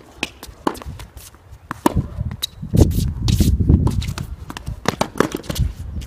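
Tennis practice sounds: a quick, irregular run of sharp knocks and clicks from balls and footsteps on the court, with a low rumble joining in from about two seconds in.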